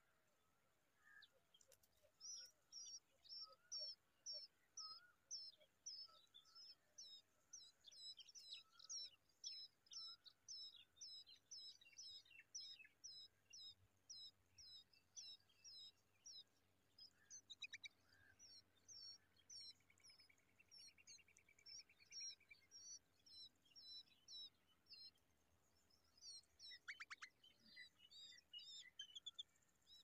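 A bird chirping: a long run of short high chirps at about two a second, then sparser, more irregular chirps with a short buzzy call partway through.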